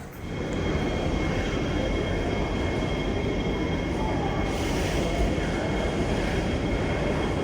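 Steady rumble of a vehicle in motion heard from inside, with two faint steady high whines over it; it comes in abruptly about a quarter second in.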